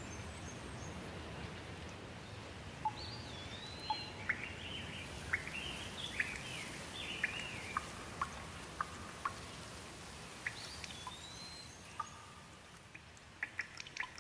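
Steady rain with a bird calling over it: a run of quick whistled notes that glide up and down, then a single call again a little later. Near the end the rain thins and single drops tick sharply.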